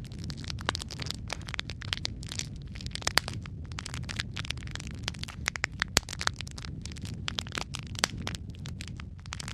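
Wood fire crackling in a fireplace: irregular sharp snaps and pops over a steady low rumble of the flames, with a few louder pops about three, six and eight seconds in.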